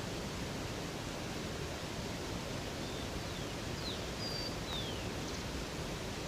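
Steady rushing of a river or waterfall. About halfway through there are a few short, high bird chirps that fall in pitch.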